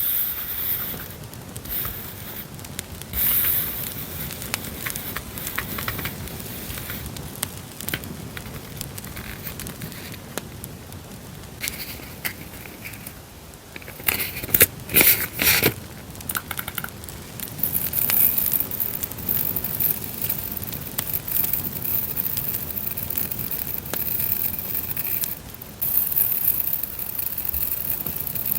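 Crackling campfire sound running throughout, with paper and plastic stationery being handled and crinkled over it, loudest in a cluster of crinkles about halfway through.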